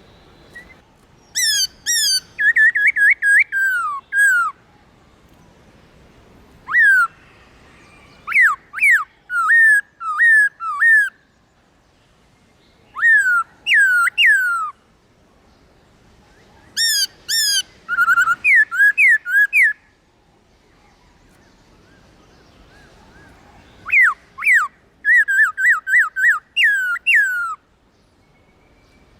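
Black-throated laughingthrush singing loud, clear whistled phrases of quick downslurred notes, five bursts of song a few seconds apart.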